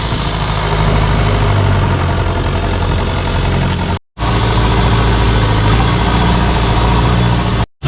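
Longtail boat engine running steadily at speed, a loud even drone, cut by two brief gaps about four seconds in and near the end.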